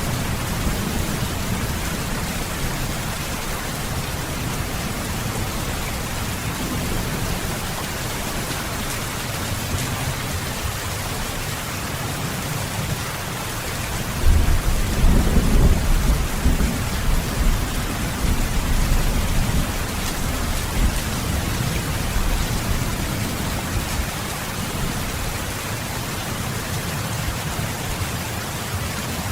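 Heavy rain falling steadily, with thunder rumbling low under it; a louder roll of thunder begins about halfway through and fades over several seconds.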